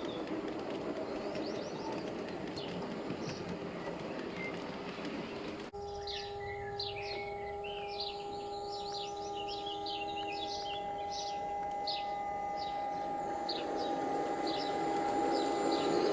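G-scale model train running on outdoor garden track, a rumble at first. After an abrupt cut it gives way to a steady multi-pitched hum, with birds chirping.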